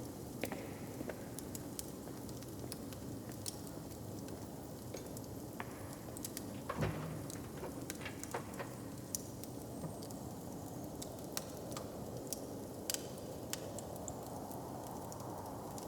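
Wood fire crackling, with scattered sharp pops over a steady low background murmur; one louder knock about seven seconds in.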